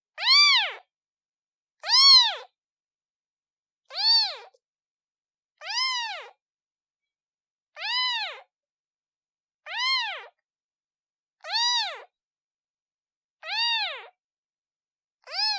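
Newborn kitten meowing for its mother: about nine high-pitched meows, one roughly every two seconds, each rising then falling in pitch, with silence between.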